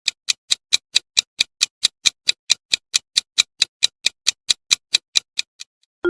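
Countdown-timer sound effect: a clock ticking evenly, about four ticks a second, stopping shortly before the end.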